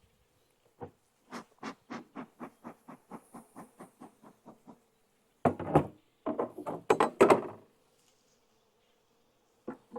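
Wooden knocks and scrapes from a beehive being worked open: one knock, then a run of about fourteen quick, evenly spaced taps that fade over about three seconds, then a cluster of louder knocks and scrapes about halfway through.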